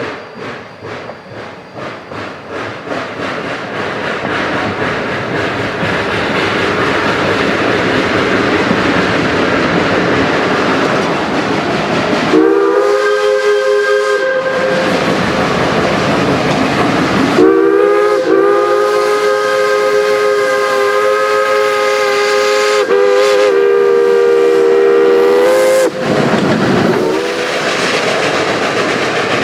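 Geared steam logging locomotive working hard and approaching, its rapid exhaust chuffs growing louder and merging into a steady rush. Its steam whistle sounds a chord of several tones: a short blast about twelve seconds in, a long blast of about eight seconds with a brief dip partway, and a short blast near the end.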